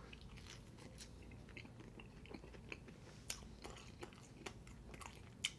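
Faint close-miked chewing of pizza dipped in garlic sauce: scattered soft wet mouth clicks and smacks, one sharper click near the end.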